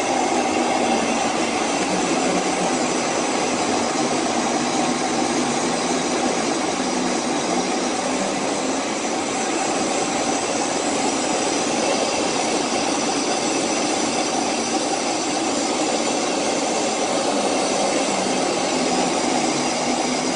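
Aircraft engine noise heard inside the cockpit during an aerobatic mirror roll: a loud, steady drone with several fixed tones that never changes in pitch.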